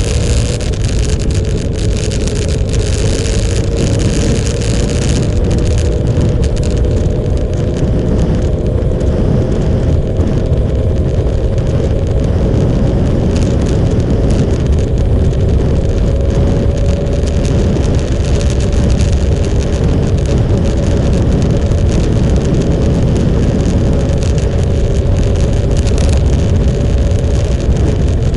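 Motorcycle engine running at a steady cruise under a heavy low rush of wind and road noise. The engine's pitch climbs slowly over the first half, then holds level.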